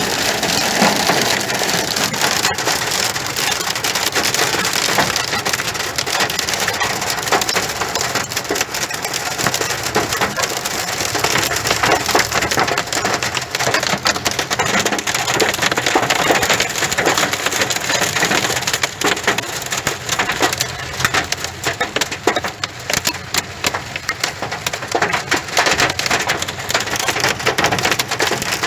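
Hail and rain pelting down, a dense, steady clatter of many small sharp hits over the hiss of rain.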